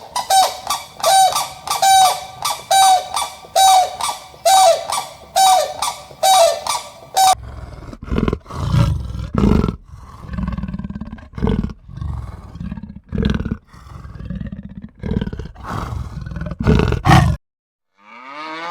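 A series of honking bird calls, about two a second, each a short falling note. These give way about seven seconds in to a run of deep, irregular roaring grunts from a big cat. Near the end a cow begins to moo.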